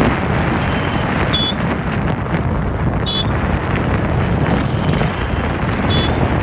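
Wind buffeting the microphone over a steady rumble of traffic. Three short, high chirps cut through it, about a second and a half in, around three seconds in, and near the end.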